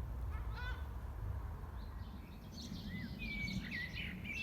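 Wild birds chirping and calling in short whistled phrases, busiest in the second half, over a steady low rumble of wind on the microphone.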